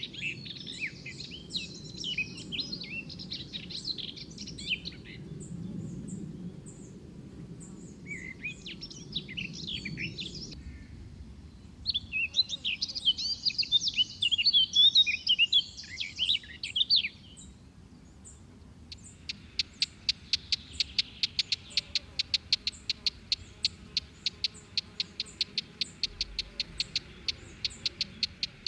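Birds singing: bursts of high, fast-changing chirping and twittering phrases. In the second half comes a long, fast, even series of sharp repeated notes. A low background rumble runs under the first part.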